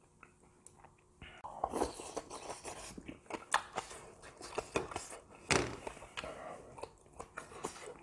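Close-miked wet chewing and lip-smacking of a mouthful of grilled beef intestines (gopchang) with vegetables, with short clicky mouth sounds and breathy puffs of air over the hot food.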